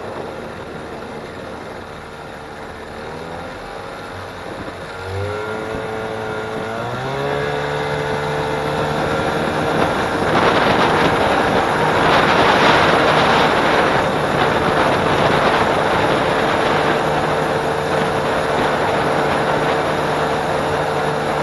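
Jon boat's outboard motor speeding up over a few seconds, its pitch rising, then running steadily at speed. Wind and water rush grow louder about ten seconds in.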